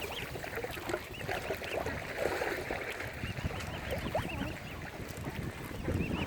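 Mute swan cygnets peeping: runs of short, high, arched calls, several in quick succession, over low background noise.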